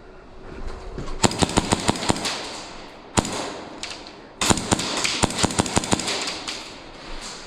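Airsoft guns firing in rapid strings of sharp shots, about a second in and again from about four and a half seconds in, with a single shot in between.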